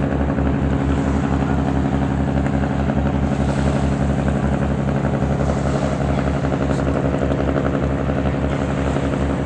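An engine running steadily at a constant speed, with an even, fast low chug.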